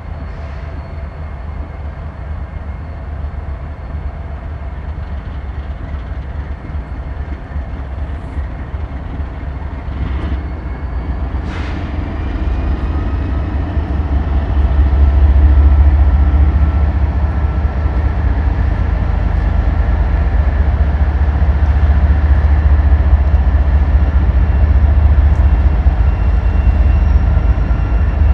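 A train passing close by: a heavy low rumble that grows louder about halfway through and stays loud, with a couple of sharp clicks and faint high whines from the wheels and rails.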